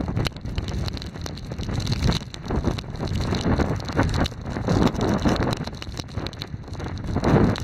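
Strong gusting wind buffeting the microphone, surging and easing every second or so with a low rumble and crackling.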